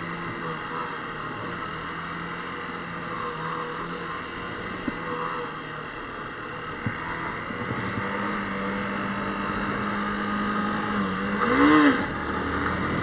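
Motorcycle engine running under light throttle while riding away from a stop, over a steady rush of riding noise. The engine note rises about two thirds of the way through, and there is a brief rise and fall in pitch near the end, with a couple of faint clicks in between.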